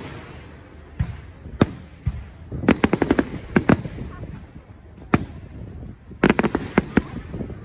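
Fireworks display: bangs of shells bursting, some single and some in quick rattling clusters of cracks, with a low rumble between them.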